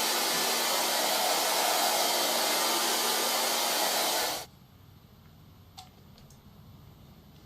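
Hair dryer blowing steadily with an even rushing noise, cut off abruptly about four and a half seconds in; after that only a faint low hum and a few light clicks.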